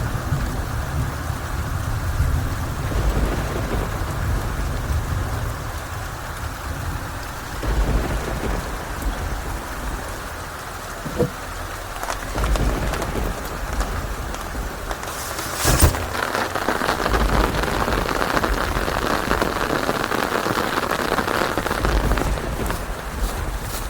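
Steady rain falling with low rolling thunder rumbling in swells. A couple of sharp cracks cut through, the loudest about 16 seconds in.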